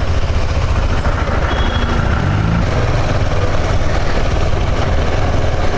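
Steady low rumble of a motorbike ride, with wind buffeting the microphone.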